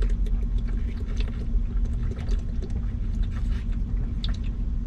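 Vehicle engine idling, a steady low rumble heard from inside the cab, with a few light clicks and knocks of things being handled.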